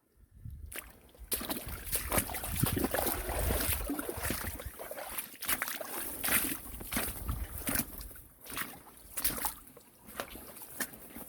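Stream water sloshing and trickling at a weir, with irregular knocks and rustles.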